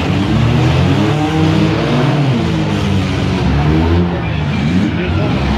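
Several demolition derby cars' engines running and revving at once in a loud, steady mix, their pitches rising and falling as the cars accelerate and back off.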